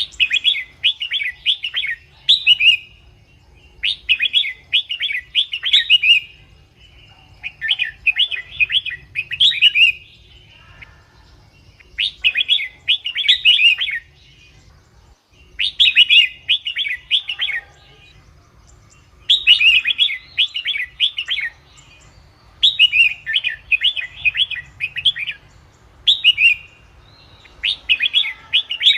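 Red-whiskered bulbul singing: short, rapid warbling phrases of several quick notes, repeated every few seconds with brief pauses between.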